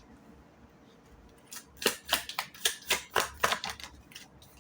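Lenormand (baralho cigano) cards being handled and drawn from the deck: a quick run of sharp card snaps and flicks that starts about a second and a half in and stops near the end.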